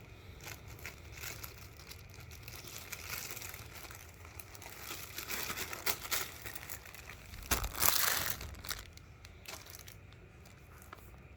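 Packaging crinkling and rustling as it is handled, in irregular bursts, loudest a little past the middle.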